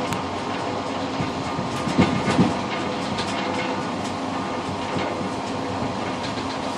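Passenger train running on the rails, heard from inside the rear car: a steady rolling rumble, with a double clack of wheels over a rail joint about two seconds in.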